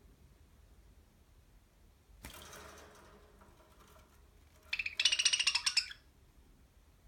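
A budgerigar's harsh, rapidly pulsing chattering call, high-pitched and lasting about a second near the end, after a soft rustle in the cage a couple of seconds in.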